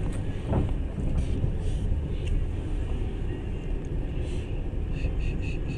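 Passenger train running at speed: a steady low rumble of wheels on rails. A few short high-pitched tones come near the end.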